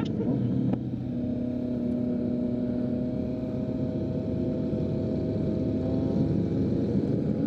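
Kawasaki Z900's inline-four engine through a full Leo Vince aftermarket exhaust, running on the road. There is a brief click and drop in level under a second in, then the engine note climbs slowly and steadily.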